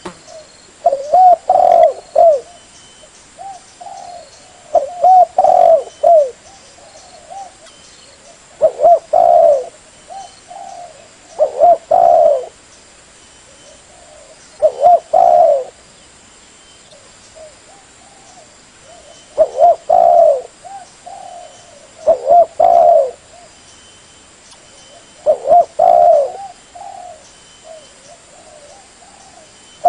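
Spotted dove cooing: about eight short phrases of several coos each, repeating every three seconds or so, with a longer pause midway. Faint high chirps sit in the background.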